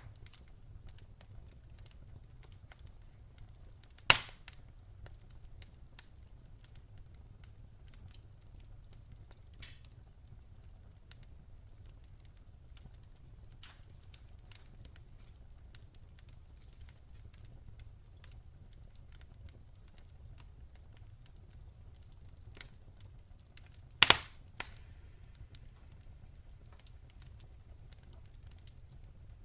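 Wood campfire crackling: scattered small crackles and snaps, with two loud pops, one about four seconds in and a quick double pop near twenty-four seconds in.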